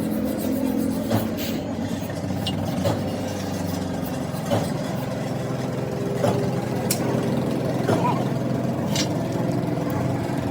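A steady mechanical hum, such as a running engine, with a few short sharp knocks scattered through it.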